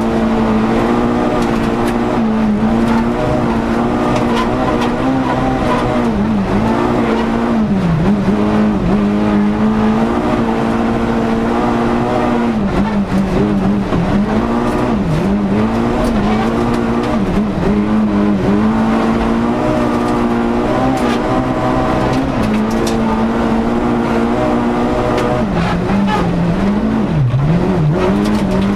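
Volkswagen Golf rally car's four-cylinder engine at high revs, heard from inside the cabin, holding steady under load with several brief dips in revs as the driver lifts and changes gear, the deepest about 8 and 27 seconds in.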